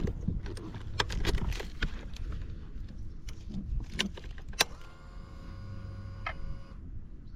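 Keys jangling and clicking around the ignition of a Buell XB12 motorcycle. About five seconds in comes a steady electric whine lasting about two seconds that cuts off suddenly, like a fuel pump priming at key-on before the V-twin is started.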